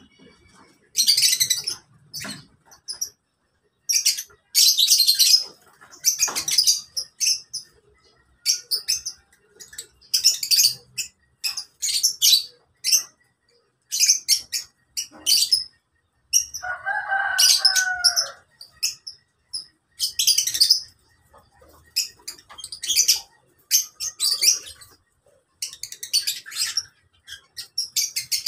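Lovebirds in an aviary giving shrill, high-pitched chattering shrieks in repeated bursts about a second long, with a lower, longer call a little past the middle.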